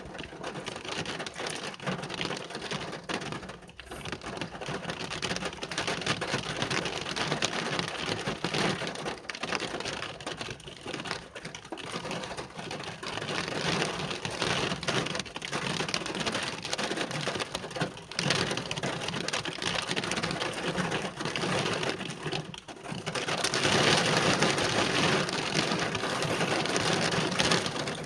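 Rain falling steadily, growing louder for about the last five seconds.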